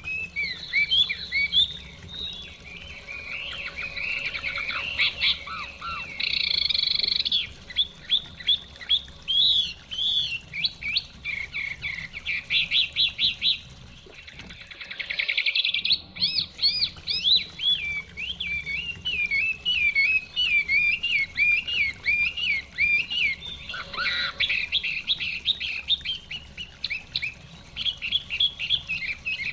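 Chinese hwamei singing a long, varied song of rapid slurred whistles and warbled phrases, with one short lull about halfway. A low murmur of running stream water runs underneath.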